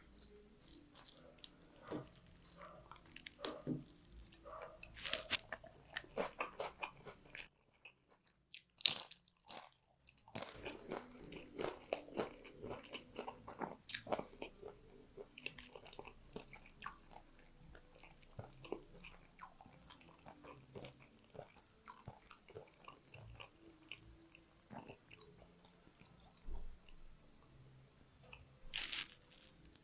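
Close-miked eating: irregular wet chewing and crunching, with a steady run of small clicks and smacks while someone eats fish curry, rice and raw onion.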